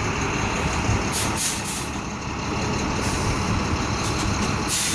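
Large box truck's engine running steadily, with short bursts of high hiss about a second in and again near the end.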